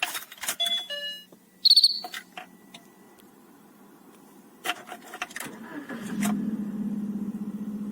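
Keys clicking and a short high-pitched beep, then the Lada 2112's engine cranks and starts about five and a half seconds in and settles into a steady idle. The engine is still cold.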